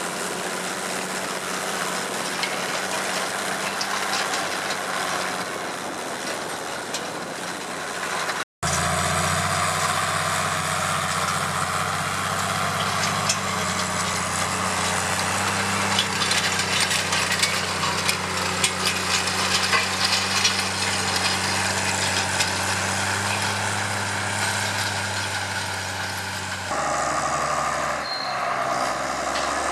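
Case IH 1455 XL tractor's six-cylinder diesel engine running steadily under load while pulling a stubble cultivator. The sound drops out for an instant about a third of the way through, and the engine note changes abruptly near the end.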